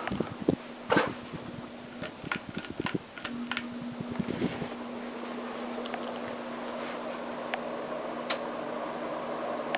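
FASCO Charleston ceiling fan running with a steady motor hum, the air noise from its blades slowly building over the second half as it picks up speed. A series of sharp clicks and knocks comes in the first half.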